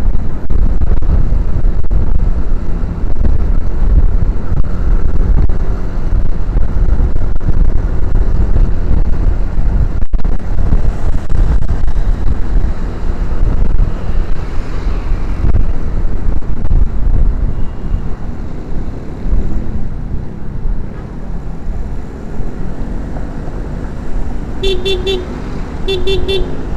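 Motorcycle ride through traffic: wind buffeting on the camera together with engine and road noise, easing after about twenty seconds. Near the end a vehicle horn gives two quick runs of beeps.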